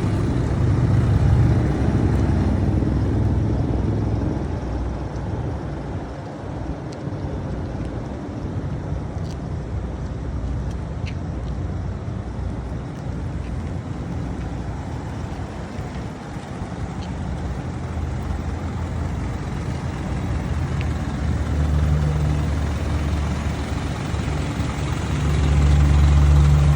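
Isuzu NRR's turbo diesel engine running steadily, louder in the first few seconds and again near the end.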